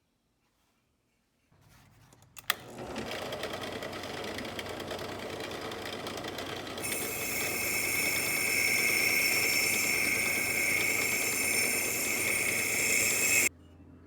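A power tool motor starts with a click and runs steadily. About halfway it gets louder and adds a strong high whine, then it cuts off suddenly near the end.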